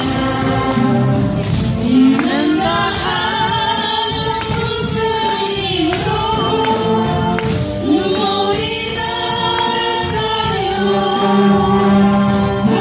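Wind orchestra playing live, with voices singing the melody over sustained band chords.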